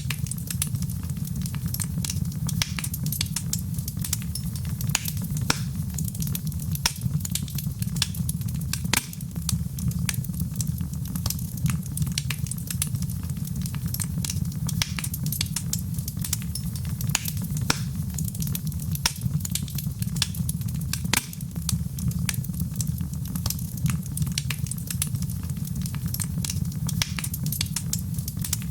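Wood fire burning in a fireplace: frequent irregular pops and crackles over a steady low rumble of the flames.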